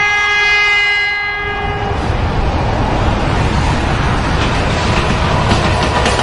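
A 2TE10M diesel locomotive sounds its horn, a chord of several tones that cuts off about two seconds in. The passenger train then rumbles past, with wheel clatter on the rail joints growing toward the end.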